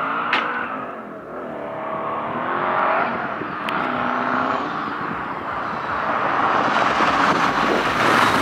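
Custom twin-turbo Chevrolet Monte Carlo SS engine running under load, its pitch rising and falling with the revs, while a rushing noise builds and grows louder toward the end.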